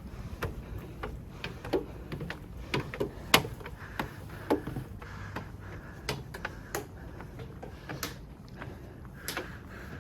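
Irregular footsteps and scuffs on a rocky mountain trail, with sharper knocks now and then, the loudest about three and a half seconds in.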